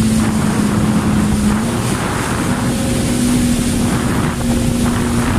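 Jet ski engine running steadily at speed, one even drone that dips slightly in pitch about two seconds in and then comes back up. Wind buffets the microphone and water rushes past.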